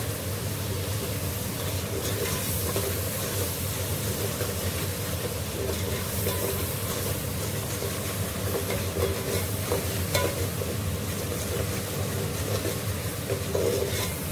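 Onion, tomato and ginger-garlic masala frying in oil in an aluminium pot, sizzling steadily while a metal ladle stirs it, with a few faint scrapes of the ladle on the pot.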